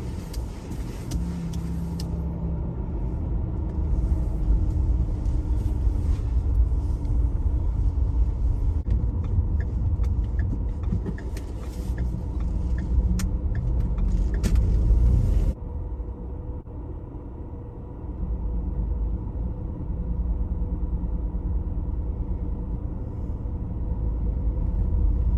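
Car being driven on the road: a steady low rumble of engine and tyres. It suddenly drops in level and dulls about fifteen seconds in, then picks up again.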